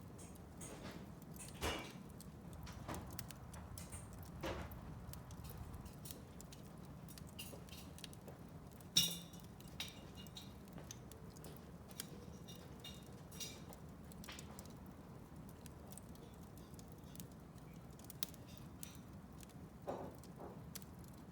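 Wood fire in a fireplace crackling: scattered small sharp pops and ticks, a few louder ones, the loudest about nine seconds in, over a low steady rush of the burning.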